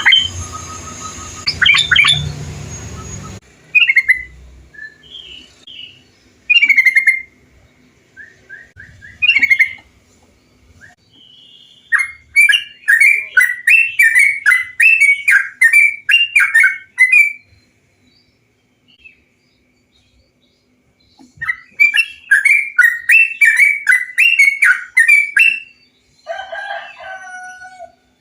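Yellow-vented bulbul (trucukan) song: scattered chirps, then two runs of quick, repeated bubbly notes, about two a second, with a pause between. A short, lower chattering call comes near the end.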